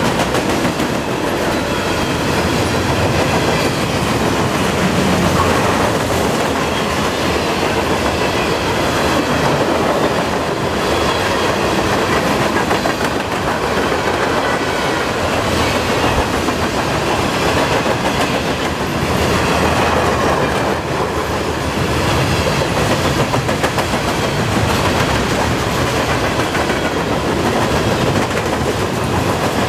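Freight cars of a long train rolling past at about 38 mph: a steady rumble with steel wheels clacking over the rail joints and a faint high ringing from the wheels.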